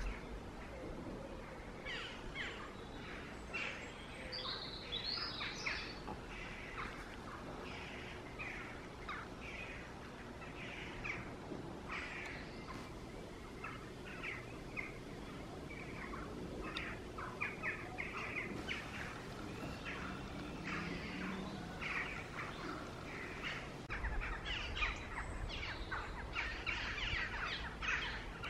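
Birdsong from several birds: many short chirps and calls scattered throughout, over a faint steady background. A low rumble comes in during the last few seconds.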